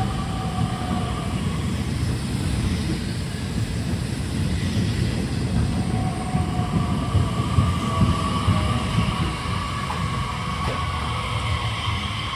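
Nishitetsu 3000-series electric train rolling into the station and braking: steady wheel-on-rail rumble with a few clicks, and a whine from the traction motors and inverter that slowly falls in pitch as the train slows.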